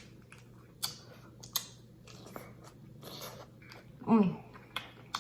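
Close-miked eating mouth sounds: scattered chewing, lip smacks and wet clicks, with a short falling "mm" about four seconds in.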